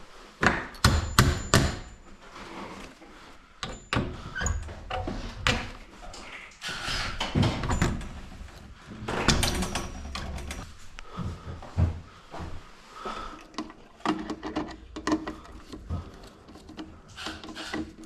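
Irregular knocks, clunks and rattles of tools and metal parts being handled during garage door opener repair work, some in quick clusters.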